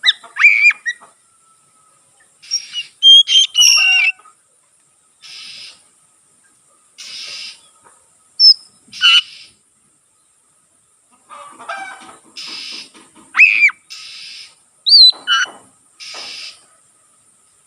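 Oriental magpie-robin singing in broken phrases: clear whistled notes and quick pitch sweeps mixed with short harsh, rasping bursts, with pauses of a second or two between phrases.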